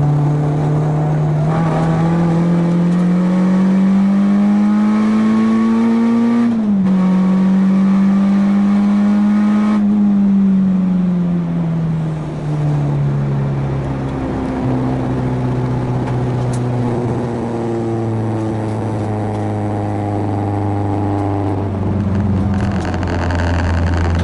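Renault Clio 2 RS's four-cylinder engine under hard acceleration: the revs climb, drop sharply with an upshift about six and a half seconds in, rise a little more, then fall away from about ten seconds in as the throttle is lifted. For the rest it runs at steady, lower revs.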